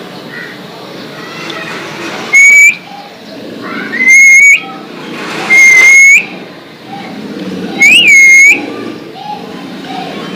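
Alexandrine parakeet giving four loud, shrill whistled calls, each about half a second long, sweeping up and then holding steady.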